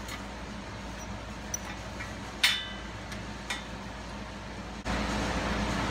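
A few light, sharp metallic clinks, spaced about a second apart, over a faint low hum; about five seconds in, the sound cuts to a louder, steady low rumble.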